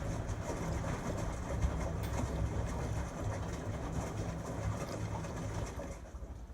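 LG Tromm WD-CR101C front-loading drum washing machine running its rapid wash cycle: a steady low rumble with rattling from the drum, dropping off near the end.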